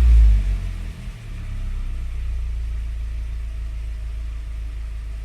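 Ford 2.5L Duratec inline-four engine in a pickup dropping back from a rev just at the start, then settling into a steady idle about a second in.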